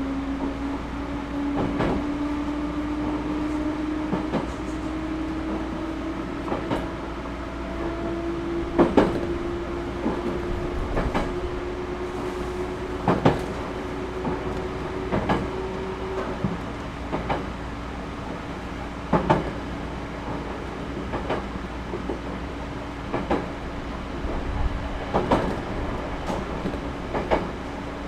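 A Series 211-5000 electric multiple unit heard from inside the car as it gathers speed. A motor hum climbs slowly in pitch, then stops about halfway through as power is shut off. The wheels click over rail joints every one to two seconds above a steady rumble.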